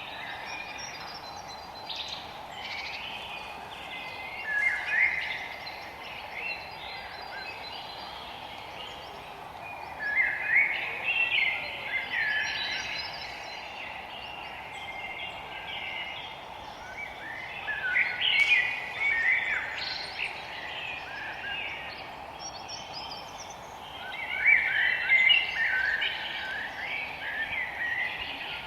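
Several songbirds singing in a forest: quick chirping, warbling phrases that swell into louder bursts of song about every six to seven seconds. A steady background hiss runs underneath.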